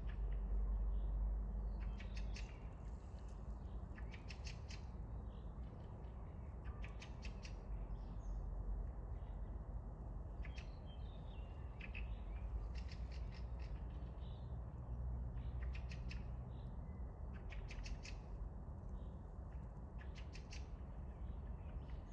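Short rattling series of rapid, high clicking bird calls, each series under a second long and repeating every couple of seconds, over a steady low rumble.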